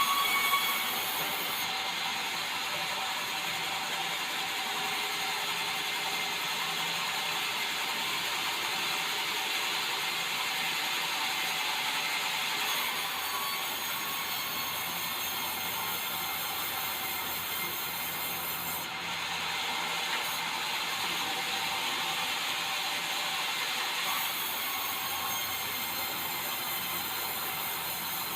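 Sawmill saw running steadily through white meranti timber, a continuous hissing, rasping cut, with a few louder knocks about the first second.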